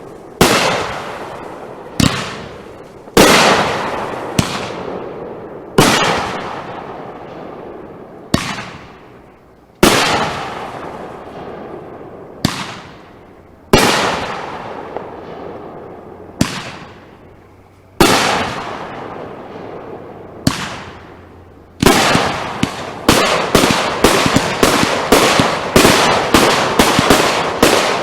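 Consumer fireworks bursting: loud single reports every second or two, each followed by a long fading tail. About three-quarters of the way through they give way to a rapid volley of three or four bangs a second.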